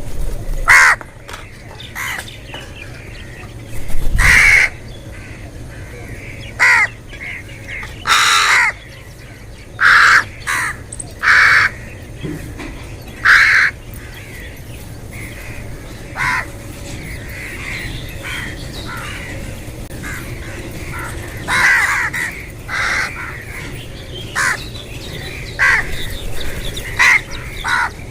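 Crows cawing: many short, loud caws at irregular intervals, some coming in quick pairs, over a steady low background hum.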